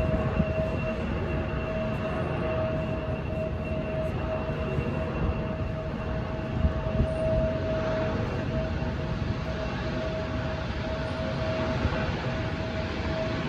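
Jet airliner's engines running steadily, a constant whine over a low rumble.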